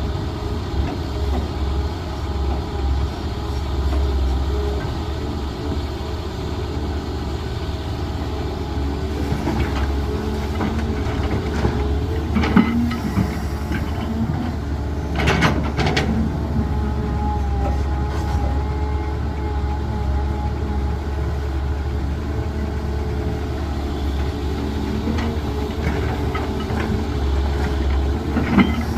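Heavy diesel machinery engine running steadily, with a few short metallic clanks about halfway through and again near the end.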